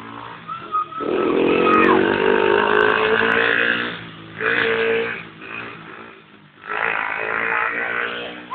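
Dirt bike engine revving under load in three surges, each rising and then easing off, as the bike is ridden.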